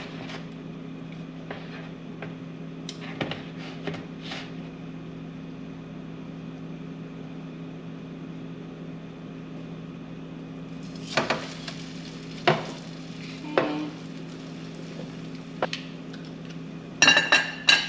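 Egg-soaked bread slices frying in butter in a pan, with a steady sizzle under a low hum. Tongs click and tap against a bowl a few times, with a quick cluster of louder clicks near the end.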